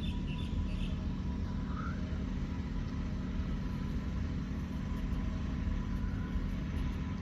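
A steady low rumble of a running motor with a faint steady whine, and a few faint bird chirps within the first two seconds.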